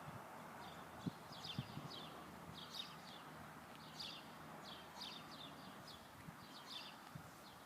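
Small birds chirping, faint short high chirps repeating irregularly about twice a second, with a few soft low knocks early on.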